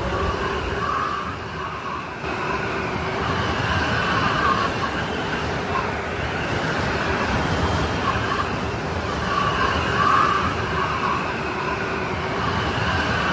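Strong snowstorm wind howling: a steady rush with whistling tones that swell and fade in waves.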